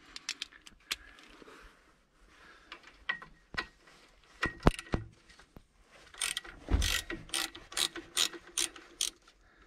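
Ratchet wrench clicking as it loosens the lower mounting bolt of a Trabant's alternator, a few scattered clicks at first and then a regular run of about two to three clicks a second in the second half.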